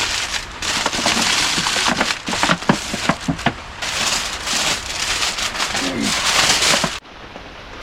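Heavy rain pouring down: a dense hiss full of sharp drop impacts and crackle. It falls away abruptly to a much quieter patter near the end.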